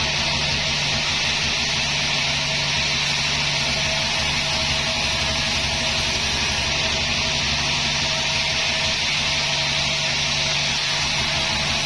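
Sawmill saw machinery running steadily, a constant loud drone and hiss with no change in pitch or level.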